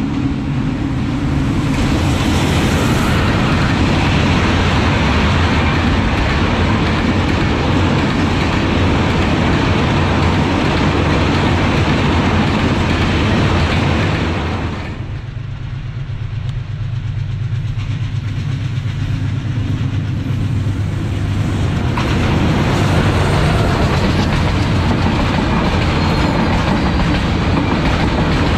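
Bangladesh Railway intercity passenger train running past: a loud steady rumble and clatter of wheels on the rails. About halfway the sound changes abruptly to a deeper, quieter rumble with clickety-clack that builds again towards the end.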